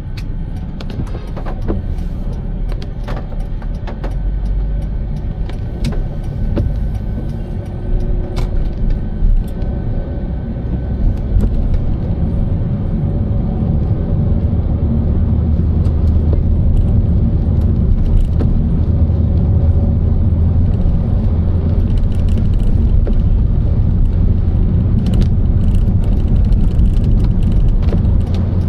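Car driving, a steady low road and engine rumble that grows louder about halfway through, with scattered sharp clicks.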